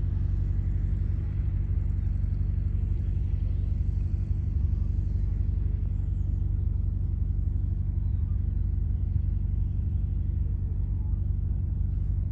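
An engine running steadily: a constant low drone with several steady tones and a fast low pulsing, no change in speed.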